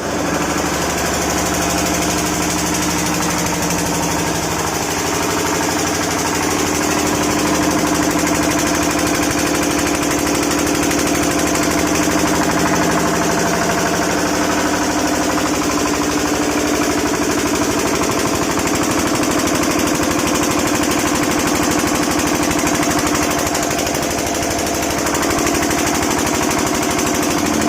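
A 7.5 kW generator's engine running steadily under a load test, with a fast, even beat.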